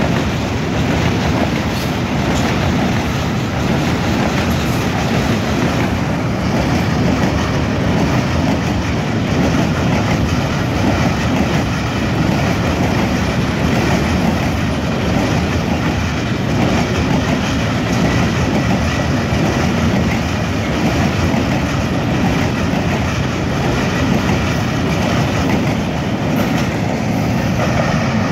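Heavy freight train of open-top wagons rolling past close by: a steady low rumble of steel wheels on the rails.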